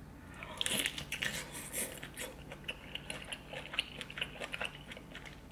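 A person chewing and biting into buttery seafood boil close to the microphone. A rapid, uneven run of mouth clicks and smacks starts about half a second in.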